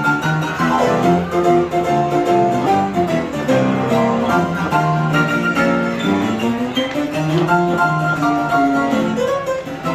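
Instrumental music on bowed strings, violin and cello, playing a melody of held notes over lower sustained lines.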